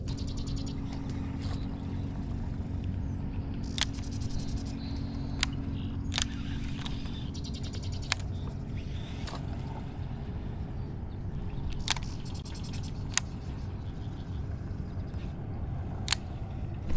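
A steady low hum, like a small motor running, with a sharp click every few seconds and a few short runs of fast ticking.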